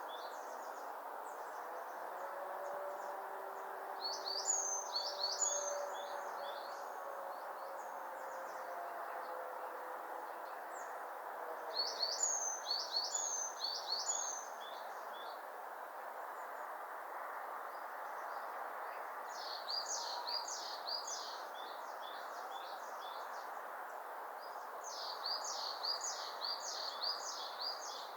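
A wild bird singing four short phrases of quick, high, repeated notes, several seconds apart, over a steady rushing background noise.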